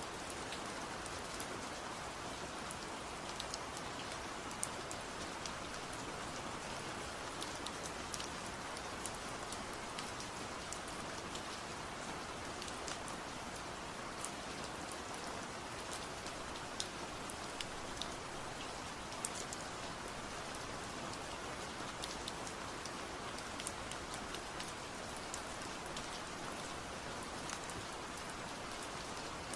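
Steady rain falling, an even hiss with many scattered sharp ticks of drops striking a surface.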